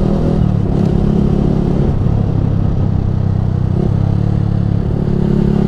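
Yamaha R15 V3's 155 cc single-cylinder engine running through a Ronin Musashi aftermarket exhaust, at a fairly steady engine speed, heard from on the bike; the engine note shifts slightly twice, just after the start and about four seconds in.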